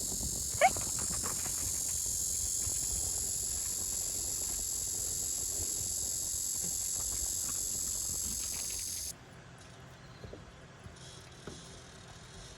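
Cicadas droning in a steady high-pitched chorus that cuts off abruptly about nine seconds in, leaving faint background sound. A single short rising chirp comes just under a second in.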